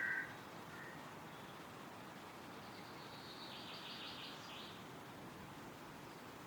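Woodland wind ambience: a steady hiss of wind through trees. A bird's caw ends right at the start, and about three seconds in a songbird's rapid, high trill lasts about two seconds.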